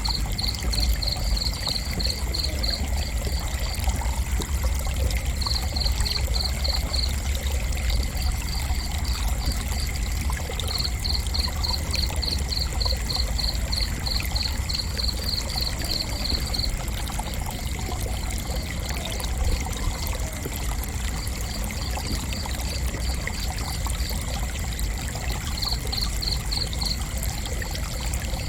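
A cricket chirping in runs of evenly spaced high chirps, several a second, that stop and start again, over steady high-pitched background trilling. A constant low rumbling noise lies underneath.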